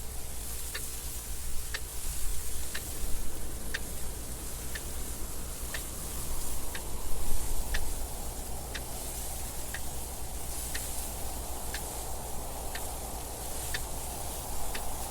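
Clock ticking steadily about once a second over continuous wind noise, the wind swelling a little a couple of times.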